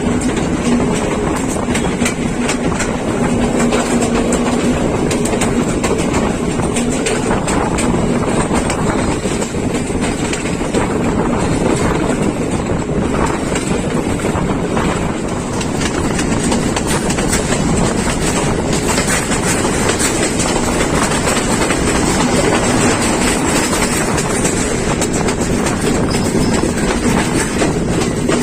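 Colombo–Badulla Night Mail passenger train running along the track: a steady, loud rumble of wheels and carriages with faint clicks over the rails, and a steady low hum through the first third.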